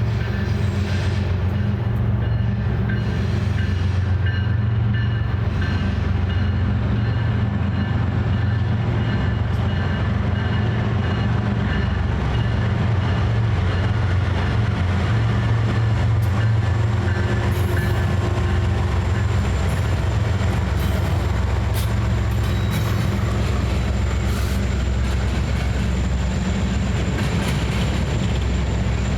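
A train running past with a steady low rumble that holds through the whole stretch, with a few faint clicks in the second half.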